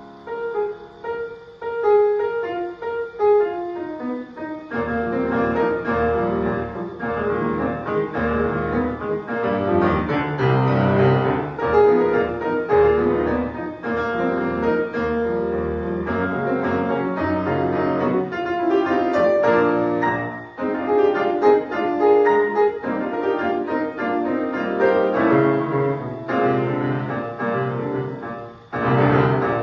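Piano playing classical music, a steady stream of notes with rising and falling loudness and a brief drop near the end.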